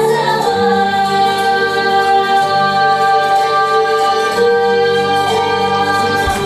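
A woman singing a song over musical accompaniment, holding one long note near the song's close.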